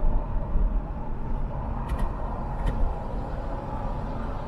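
Steady low rumble of a car driving in traffic, heard from inside the car, with three faint clicks about two seconds in.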